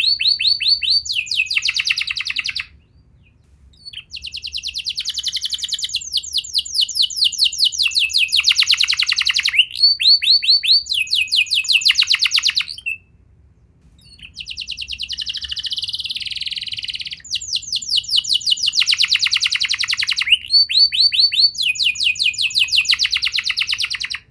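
Domestic canary singing: a long song of rapid trills, each phrase a quick run of repeated notes that changes every second or two, broken by two short pauses about three and thirteen seconds in.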